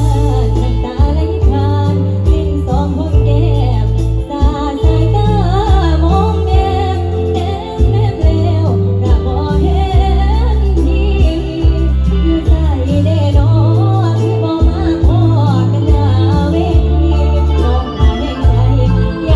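A young girl singing an Isan lam-style folk song over band backing with electronic organ and a steady bass line.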